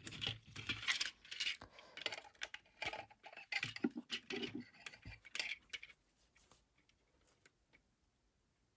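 Hard plastic action-figure parts handled and pressed together: a run of light clicks and small rattles that stops about six seconds in.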